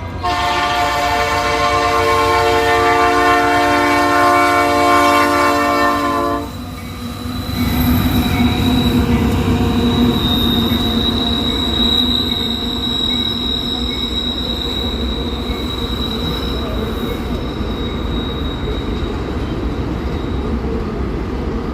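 Diesel locomotive air horn sounding one long blast of about six seconds, then an empty freight train rolling past with a steady low rumble and a thin, high wheel squeal that fades out near the end.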